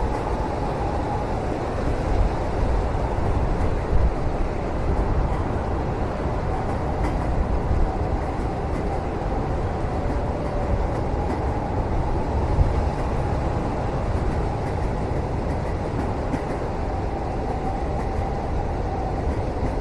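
Steady rumble of a moving train heard from inside a passenger cabin, with a faint wavering hum above it and a few light clicks.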